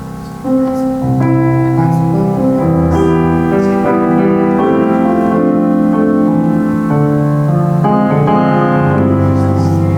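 Solo acoustic piano playing a slow hymn in sustained chords, a new chord struck about half a second in.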